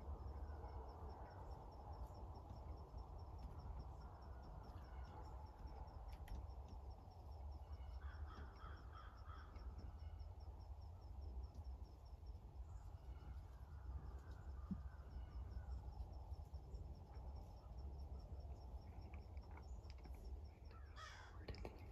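Faint woodland ambience: a bird calls a few times around the middle, over a steady high insect chirping and a low rumble.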